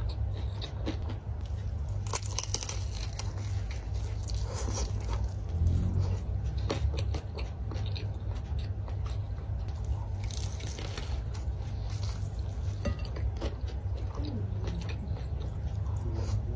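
Close-miked eating: bites into fried battered tempeh and fried tofu, then crisp crunching and wet chewing, in many short sharp crackles throughout.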